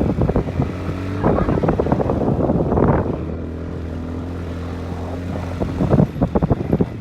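Motorcycle engine running under way while riding over a rough dry stream bed, with frequent jolts and rattles. The engine holds a steady pitch for a couple of seconds in the middle.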